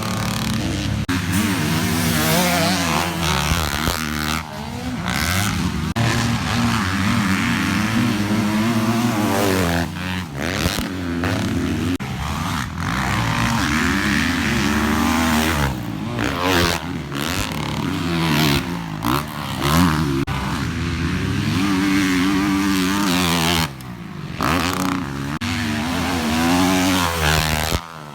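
Motocross bike engine revving up and down, its pitch climbing and falling again and again, with brief cuts where the throttle is chopped.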